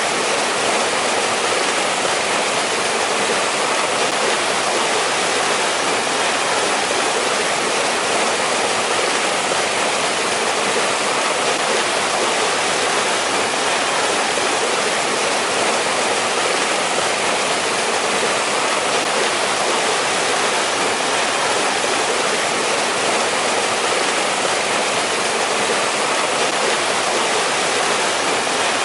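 Mountain stream water rushing and splashing over rocks, a steady, even rush with no changes.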